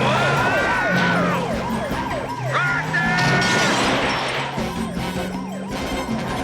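Cartoon police siren yelping in quick rising and falling sweeps, about three a second, over background music with held chords and a bass line; the siren fades somewhat in the second half.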